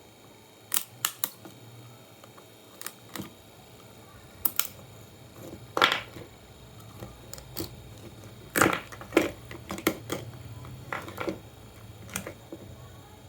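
Irregular sharp clicks and clacks of small hard parts and tools being handled while a computer power supply is taken apart, a dozen or more at uneven spacing, the loudest about six seconds in and again about nine seconds in.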